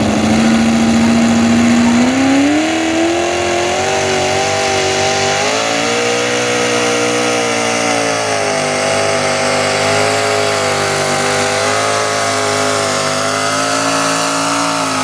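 Super stock pickup truck engine at full throttle pulling a sled, its pitch climbing twice in the first several seconds and then held high and steady under heavy load.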